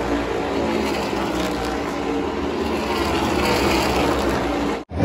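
Race truck engines running at high speed, a loud steady drone with pitches that fall slightly as the trucks pass. The sound breaks off for an instant near the end.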